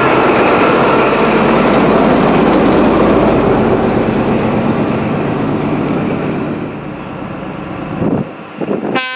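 Class 43 HST power car passing close by, its diesel engine and wheels on the rails loud and steady, then fading away over several seconds. A train horn begins right at the end.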